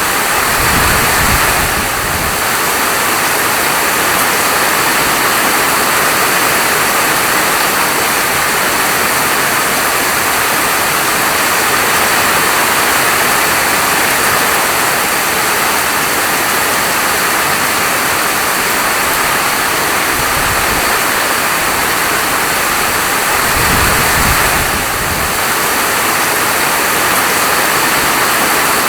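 Heavy rain falling steadily, a dense even hiss. A brief low rumble swells about a second in and again about twenty-four seconds in.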